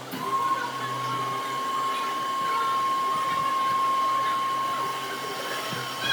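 An electric power tool's motor running with a steady high whine, easing off slightly near the end.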